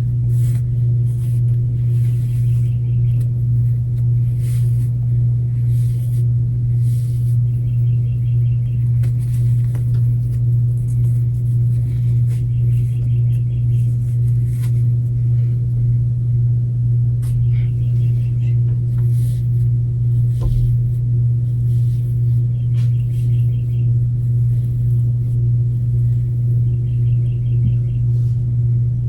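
A loud, steady low hum that pulses slightly, with a faint short high-pitched figure repeating about every four seconds.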